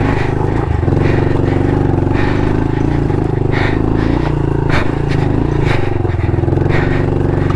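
Honda CRF110 pit bike's small single-cylinder four-stroke engine running under load at fairly steady revs while climbing a loose, rocky trail, with irregular knocks and clatter every second or so.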